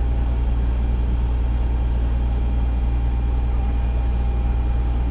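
Fire engine's engine running steadily, a constant low drone with a faint steady whine above it.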